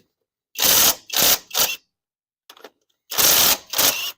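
Impact wrench fired in short bursts, about three, then a pause, then two or three more, spinning loose the lug nuts on a car wheel that had been left only partly tightened.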